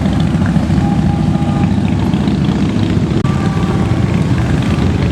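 A large group of motorcycles riding past, their engines running together in a steady low drone.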